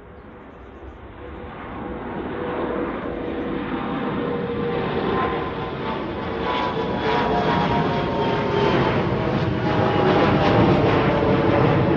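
Engines of a departing airliner, growing steadily louder as it approaches, with several whining tones over a broad rumble that sink slightly in pitch midway through.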